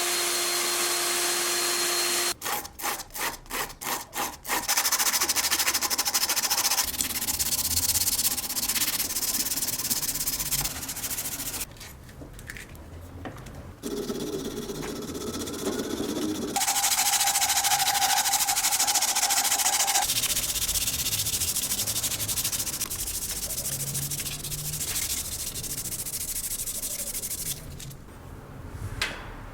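Sanding and rubbing on a wooden knife handle in a string of short clips. There are several quick hand strokes a few seconds in, and a machine runs steadily in some stretches.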